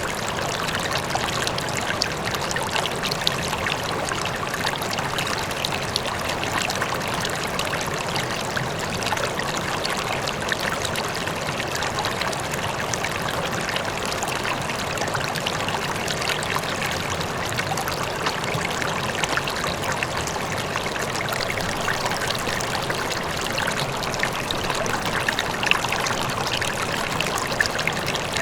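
River water flowing steadily over stones, with many small splashes and trickles in a continuous rushing sound.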